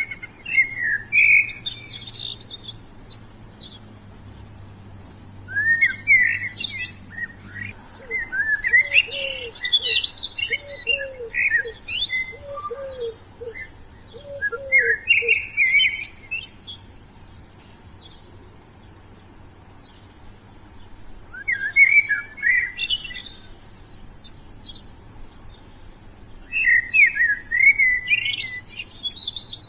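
Wild songbirds singing in separate bursts of quick, sweeping chirps and trills, about six phrases with short pauses between them. A row of about ten short, lower rising notes repeats through the middle.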